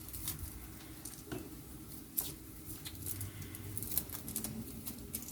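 Garlic cloves being peeled by hand: faint, scattered crackles and ticks of the papery skins.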